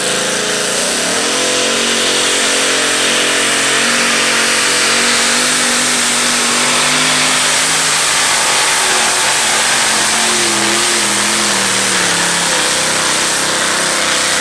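Chevrolet-powered 1923 bucket pulling truck engine at full throttle dragging a weight sled; the revs climb about a second in, hold, then sag slowly near the end. The load has knocked the RPMs down and the horsepower never comes up, so the engine bogs through the run.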